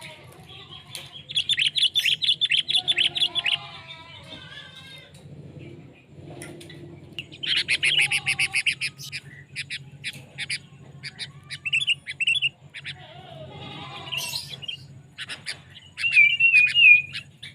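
Sooty-headed bulbuls (kutilang) calling: two bursts of fast chattering notes, then scattered short whistled calls and a wavering whistled phrase near the end. A faint steady low hum runs underneath.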